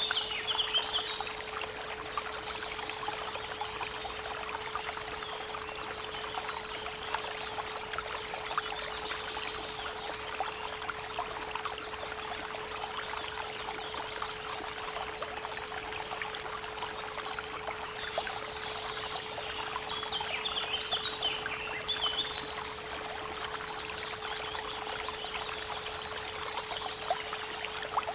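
Creek water running steadily, with small birds chirping and singing now and then, under a steady 432 Hz pure tone that hums throughout.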